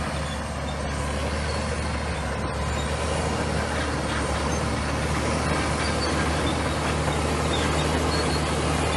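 Komatsu bulldozer's diesel engine running steadily at work, with a continuous low hum under the machine's broad mechanical noise, getting gradually louder.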